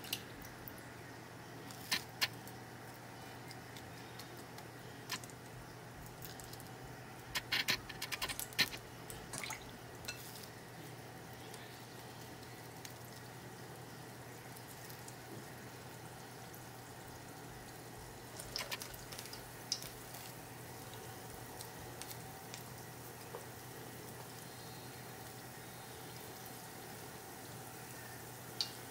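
Urad dal fritters deep-frying in a pot of oil: a quiet, steady sizzle, with short crackles and pops now and then, clustered about a quarter of the way in and again just past the middle.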